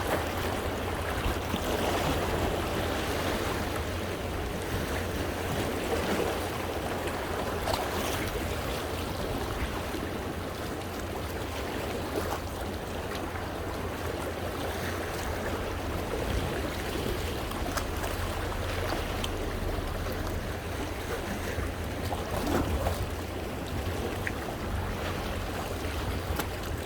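Sea waves washing and splashing over coastal rocks: a continuous surf wash with occasional sharper splashes, over a steady low rumble.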